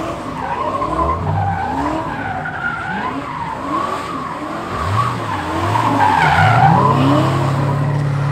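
A car spinning donuts: tires squealing with a wavering pitch while the engine revs up and down, then holds a steady note near the end.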